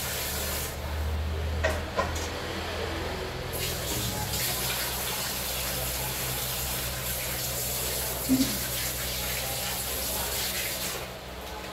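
Food sizzling as it fries in a pan: a steady hiss that thins for a couple of seconds about a second in, then returns and stops just before the end. Two sharp clicks come about two seconds in, and a short knock comes near the end.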